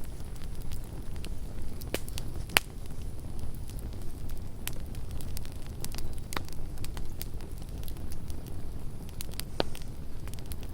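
Campfire crackling: scattered sharp pops and snaps, the loudest about two and a half seconds in, over a low steady rumble of the burning fire.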